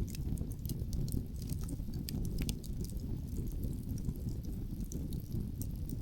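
Outdoor wood fire crackling, with many quick sharp pops and snaps, most frequent in the first half, over a steady low rumble.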